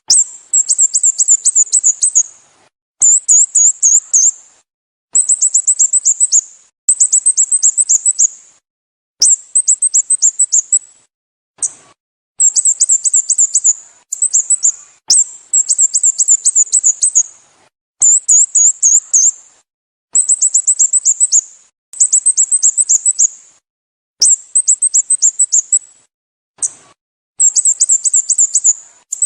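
Sooty-headed bulbul calling: runs of short, high chirps, each dropping in pitch, about a dozen to a run. A new run comes every second or two, with dead silence between runs.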